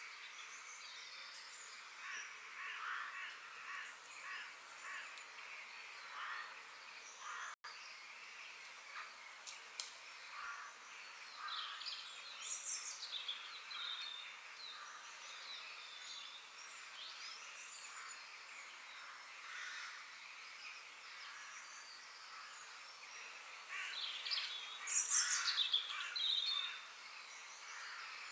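Several wild birds chirping and calling over a steady background hiss. A brief dropout comes about a quarter of the way through, and a louder flurry of quick chirps and whistles comes near the end.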